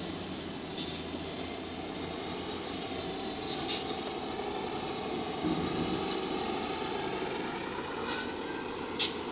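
A truck engine running as the truck drives over a bumpy dirt road, heard from the open truck bed, with three short sharp knocks or rattles.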